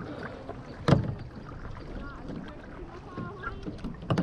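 Kayak paddling: water noise from the paddle strokes, with a sharp knock about a second in and another near the end, the paddle striking the kayak.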